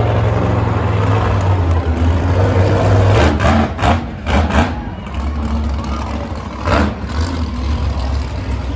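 Monster truck engine running loud and low, its pitch shifting as the throttle changes, with a handful of short, noisy bursts around the middle.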